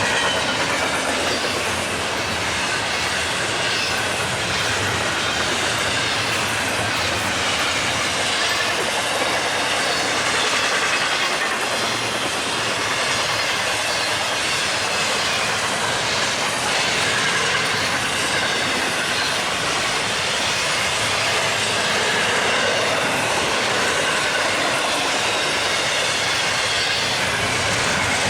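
Freight train cars rolling past at speed: a steady rush of wheels on rail with a faint, wavering squeal.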